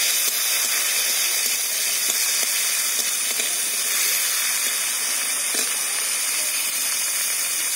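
Chopped tomato frying in hot mustard oil in a kadai: a steady sizzling hiss as it is stirred with a metal spatula.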